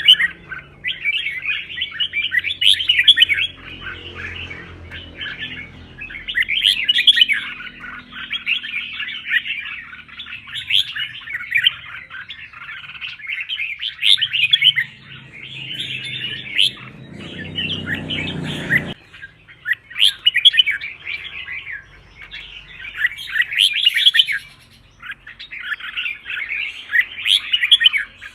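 Red-whiskered bulbul singing: bursts of rapid, chattering warbles, one after another with short gaps, in the loud, fired-up fighting song that bird keepers train for.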